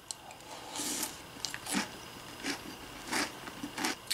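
Mouth chewing a spoonful of crunchy chocolate Kit Kat cereal in milk, with a crunch about every three-quarters of a second and a light click as the spoon goes into the mouth at the start.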